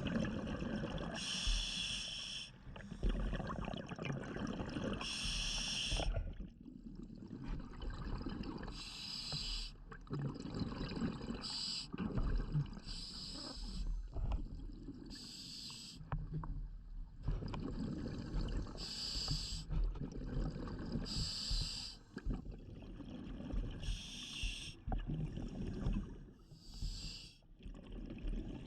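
A scuba diver breathing through a regulator underwater: each drawn breath gives a hissing rush every two to four seconds, between low rumbling and gurgling of exhaled bubbles.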